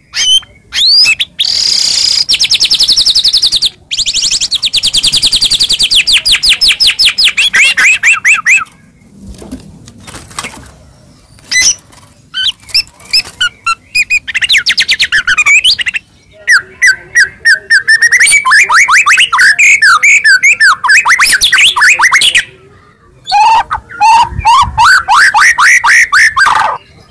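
White-rumped shama (murai batu) singing loudly in long, varied phrases: fast runs of rapidly repeated notes, many falling in pitch, broken by short pauses.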